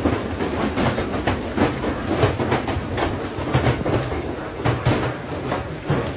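Hailstones and rain pelting a hard surface, a dense, irregular clatter of many small impacts over a steady rushing noise.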